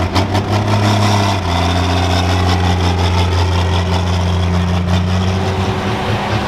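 Turbocharged pro stock pulling tractor's diesel engine running at a steady low idle, its pitch dropping slightly about a second and a half in and turning uneven and pulsing near the end.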